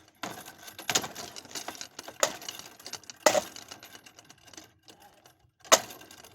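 Hard clattering strikes against a ceiling fan, four of them in about five seconds, with rattling in between.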